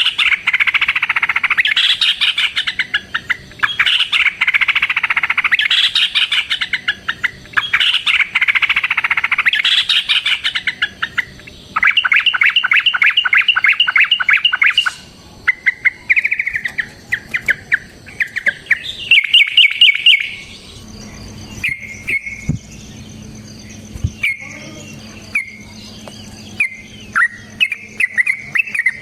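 Sooty-headed bulbuls singing loudly in dense, overlapping chatter, breaking into fast runs of rapidly repeated notes around the middle. After about 20 s the song thins to short separate phrases over a faint low hum.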